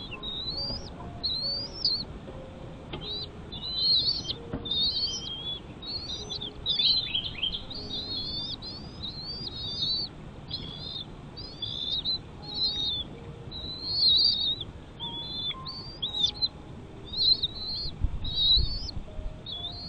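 Birds chirping: a continuous run of short, high chirps, several a second, each sliding quickly in pitch. A brief low rumble comes near the end.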